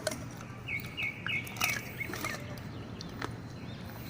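A bird chirping a quick run of about five short, high notes, with a few faint scattered clicks around it.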